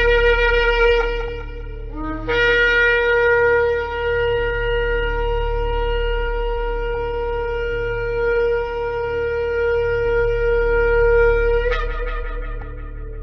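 Shofar (ram's-horn trumpet) being blown. A short blast is followed by a brief lower note about two seconds in, then one long held note that breaks upward into a short wavering flourish near the end and fades. A steady low hum lies underneath.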